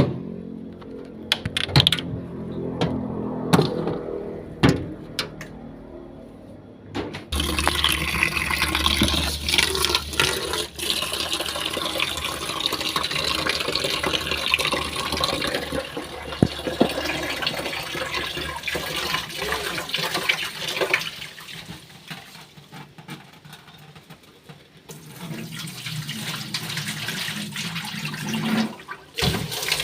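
A few clicks and knocks, then, about seven seconds in, tap water starts running steadily into a sink. The flow eases off about two-thirds of the way through and then picks up again.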